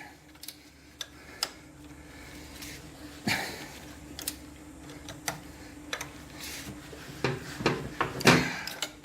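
Hand wrenches clinking and knocking against metal while the motorcycle's shock absorber mounting bolts are tightened down, in irregular single knocks, over a faint steady hum.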